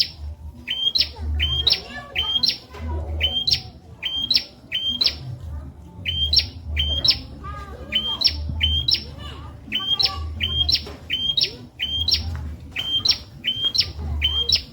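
Prenjak (prinia) song: quick, sharp chirping notes that jump upward in pitch, given in pairs or triplets about once a second. A low rumble pulses underneath.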